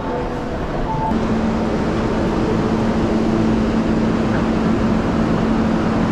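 Short electronic beeps from automatic ticket gates over a noisy concourse. Then, from about a second in, the steady low hum of a stopped Sōbu line commuter train standing at the platform, mixed with the shuffling and murmur of a rush-hour crowd boarding.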